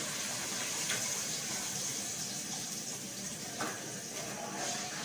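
Blended pepper purée being poured from a bowl into a pot of hot oil and onions, sizzling with a steady hiss as it hits the oil.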